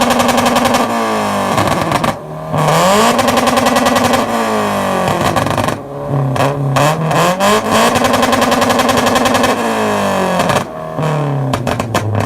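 Toyota 86's flat-four engine revved hard about three times, each time climbing, holding flat at high revs, then dropping. A string of sharp pops comes as the revs fall. Pretty loud.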